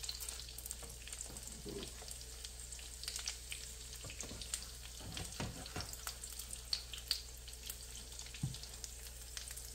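Egg omelette batter with bean sprouts and shrimp sizzling and crackling in a nonstick frying pan. A silicone spatula scrapes against the pan a few times as it lifts the edges.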